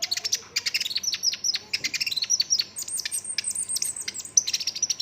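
Sunbird singing a fast, rattling song: a rapid string of sharp, downward-sweeping high notes, several a second, the notes climbing higher about halfway through, then stopping suddenly at the end.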